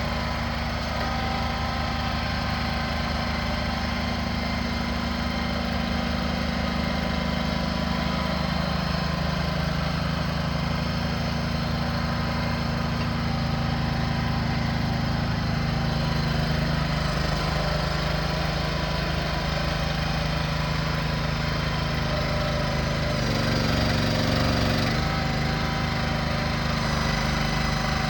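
A small engine running steadily, with a brief change in its low note about 23 seconds in.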